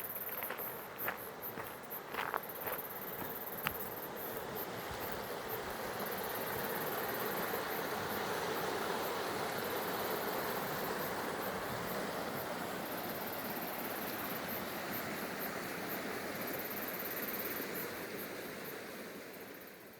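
High-pitched insects chirring on and off over a steady rushing noise that swells a little in the middle, with a few light clicks in the first few seconds.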